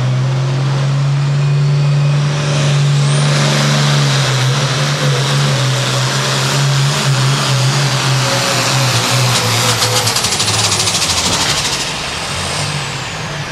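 Hot farm pulling tractor's diesel engine running flat out under load, with a high turbocharger whine that rises about three seconds in and holds. Near the end the engine comes off the throttle and the whine falls away.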